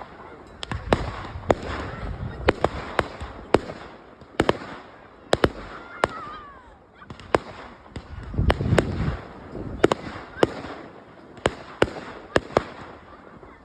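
Display fireworks going off: a string of about twenty sharp, cracking shell bursts at uneven intervals, with deeper booming rumbles about a second in and again around nine seconds in.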